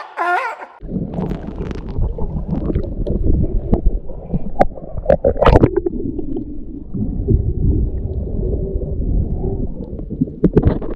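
A seal barking loudly, its last bark cut off within the first second. Then a steady low underwater rumble and gurgle of moving water, with scattered clicks and knocks.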